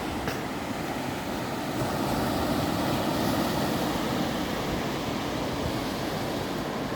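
Ocean surf washing onto a beach: a steady rush of waves that swells slightly a couple of seconds in.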